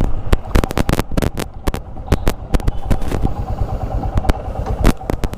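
Royal Enfield Himalayan motorcycle running, with an irregular clattering of sharp knocks over the engine's low rumble: the speedometer rattling on its worn-out rubber mounts.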